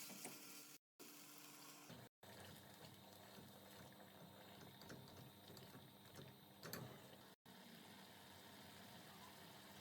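Faint, steady simmering of liquid cooking in a pot, broken three times by moments of dead silence.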